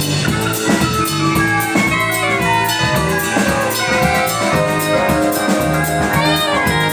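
Instrumental music: a band playing over a drum kit beat, with held melodic notes and no singing.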